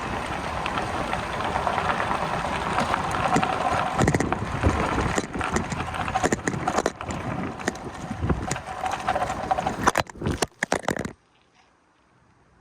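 Wind buffeting the camera's microphone on a moving bicycle, a rough rushing noise with many gusty surges and knocks. It cuts off abruptly near the end to a faint hush.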